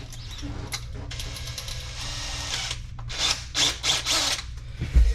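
Power drill boring a hole in the drain pipe for the reverse-osmosis drain line: one longer run, then three short bursts, and a thump near the end.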